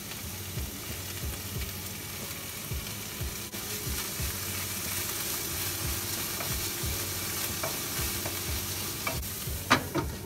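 Shredded cabbage frying in hot vegetable oil in a frying pan with garlic and onion, a steady sizzle, while it is stirred with a wooden spatula. Near the end there are a few sharp clicks as a lid is set on the pan.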